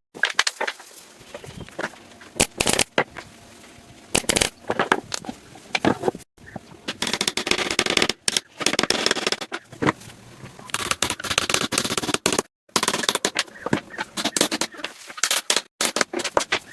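Hand tools knocking, tapping and scraping on wood in quick irregular strokes, broken off by several abrupt cuts.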